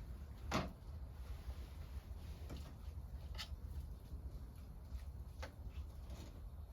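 A sharp knock about half a second in, then a few fainter clicks and taps, over a steady low rumble.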